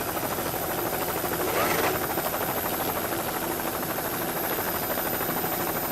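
A steady engine drone with a fast, even pulsing.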